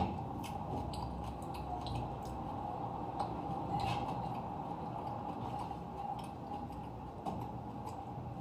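Someone eating a meal: scattered small clicks and scrapes of cutlery on a plate, over a steady background hum.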